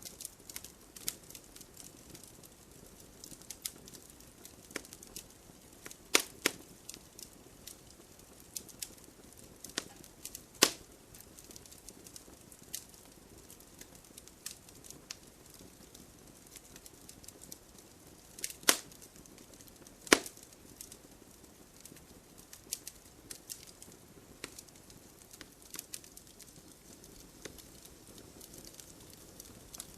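Wood fire burning in a fireplace, crackling continuously with sharp pops; the loudest pops come about six, ten, eighteen and twenty seconds in.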